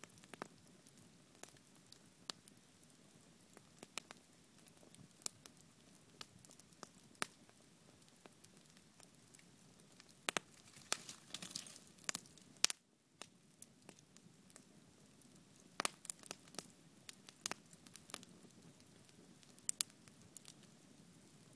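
Wood bonfire crackling, with irregular sharp pops over a faint hiss. The pops come more thickly for a moment about eleven seconds in.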